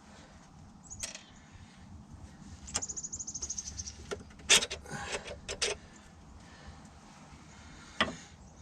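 Workshop tool noises on an engine under repair: a quick, even run of rapid clicks, then a loud sharp metal knock followed by a cluster of smaller knocks, and another single knock near the end.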